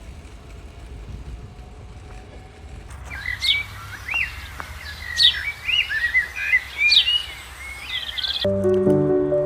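Birds chirping and calling, with quick sweeping notes, over a low steady background rumble; the birdsong starts about three seconds in. Music with held notes begins near the end.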